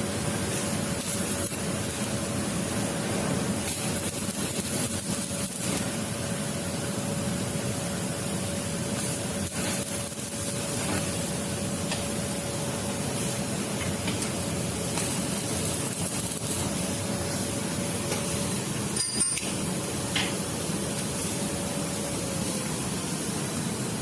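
Electric arc welding on the lathe's steel locking part: a steady hiss throughout, under a faint steady tone that slides down and stops shortly before the end. A couple of sharp clinks come about three quarters of the way through.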